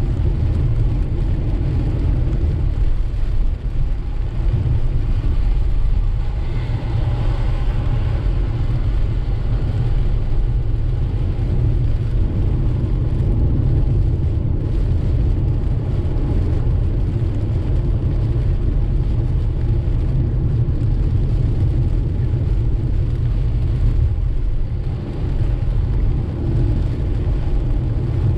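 Inside a car driving through steady rain: a constant low road-and-engine rumble with an even hiss of tyres on the wet road and rain on the car, swelling briefly about six seconds in.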